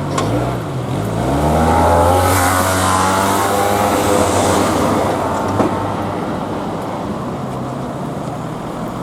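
A road vehicle's engine accelerating past, its pitch climbing over the first couple of seconds. The sound swells to its loudest about two to five seconds in, then eases off into steady traffic noise.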